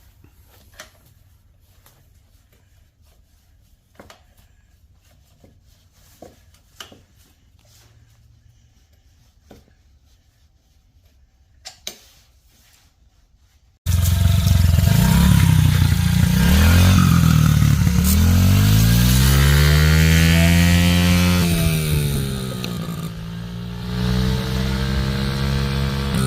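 Light clicks and knocks of parts being handled, then about halfway through a Honda CRF50's small single-cylinder four-stroke engine starts up loud and revs up and down several times.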